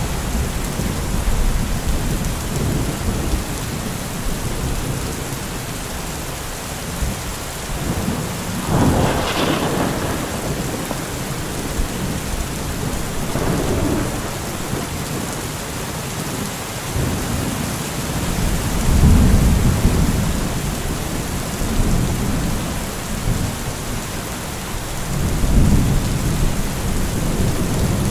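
Heavy rain falls in a steady hiss while thunder rolls several times in low rumbles. The sharpest, crackling peal comes about nine seconds in, and the other rumbles swell around the middle and near the end.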